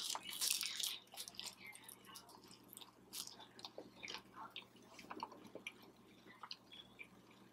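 A crunchy bite into a fried cheeseburger egg roll, its crisp wrapper crackling, followed by quieter chewing with small scattered crunches and clicks.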